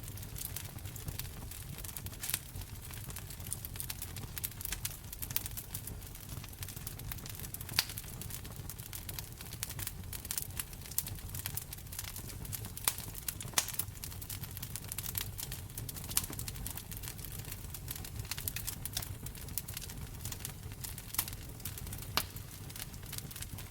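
Wood fire in a fireplace crackling, with irregular sharp pops and snaps over a steady low rumble of the flames. A few louder pops stand out about 8, 13 and 22 seconds in.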